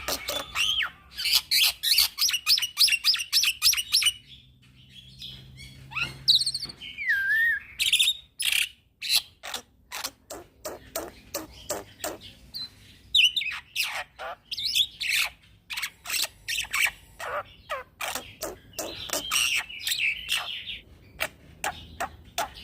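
Young black-winged myna singing continuously: fast runs of sharp, repeated chirps mixed with sliding whistles, with a short pause about four seconds in.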